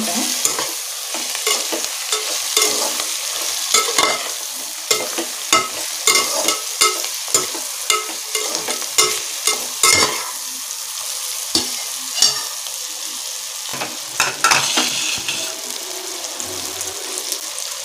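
Brinjal pieces with tomato and onion frying in hot oil, sizzling steadily as they are sautéed soft with spices. A perforated steel ladle stirs and scrapes against the pan, giving irregular clicks and knocks.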